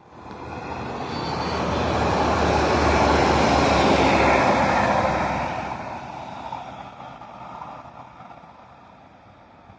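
Diesel multiple-unit passenger train passing close by, its engine hum and wheel-on-rail noise building over the first few seconds, loudest around the middle, then fading away.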